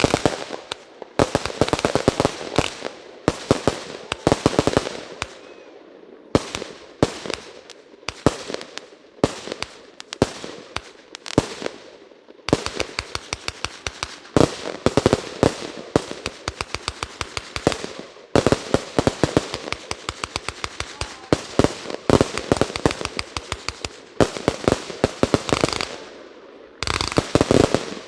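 Consumer firework finale: cakes and aerial shells firing in a nearly continuous barrage of sharp bangs, many a second, some trailing off.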